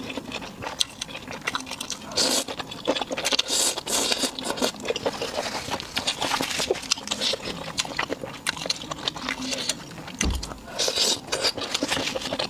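Close-up eating sounds of chicken and oden: rapid wet clicks and smacks of chewing, with louder crunchy bursts a few times and a low thump about ten seconds in.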